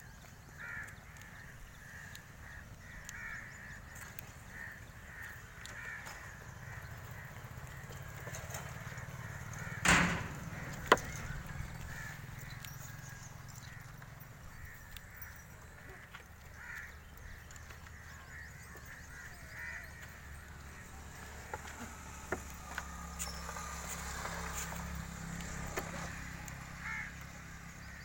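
Birds calling in short, repeated calls. A single loud knock comes about ten seconds in, followed a second later by a sharp click.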